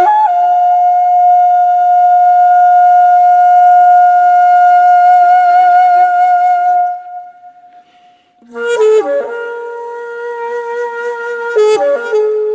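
Background music on a flute-like wind instrument: one long held note with a slight waver, which fades out about seven seconds in. After a short pause a new, lower phrase of several notes begins.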